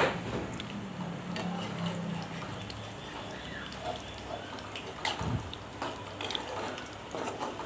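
Onion pakodi deep-frying in hot sunflower oil in a kadai: a steady sizzle with many small crackling pops, and a dull thump about five seconds in.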